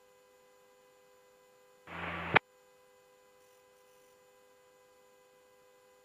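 Quiet aviation radio channel between transmissions: a faint steady electrical hum. About two seconds in comes a half-second burst of radio noise from a brief transmission with no speech, cut off with a click.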